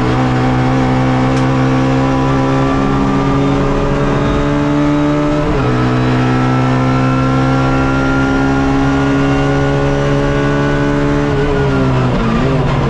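Suzuki Swift race car's engine heard from the cockpit, pulling hard under full throttle with the revs climbing steadily. It makes one quick upshift about halfway through. Near the end the revs drop and waver as the driver brakes and downshifts.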